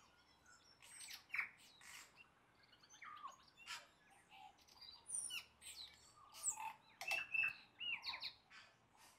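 Birds chirping and calling: a busy run of short, high chirps and whistles, several of them sliding downward in pitch.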